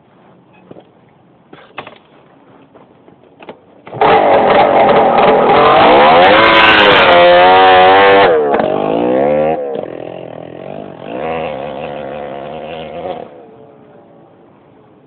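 Honda CRM250R's 250 cc two-stroke single running with its silencer removed, straight out of the open exhaust pipe. It comes in loudly and abruptly about four seconds in, is revved up and down for several seconds, revved again a little later, then falls much quieter near the end. A few light clicks come before it.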